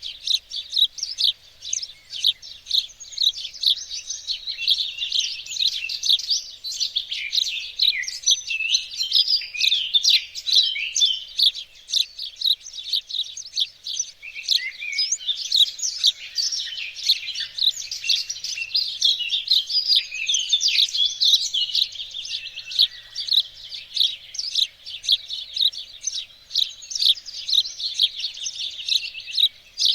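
Many songbirds chirping and singing at once, a dense, unbroken chorus of quick high notes and trills.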